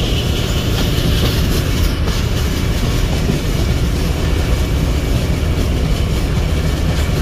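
Passenger train running along the track, heard from inside the carriage: a steady low rumble with the clickety-clack of the wheels over the rail joints.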